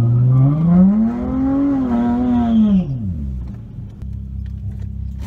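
Car engine revving: the revs climb steadily for about two seconds, hold high for about a second, then drop back to a low idle.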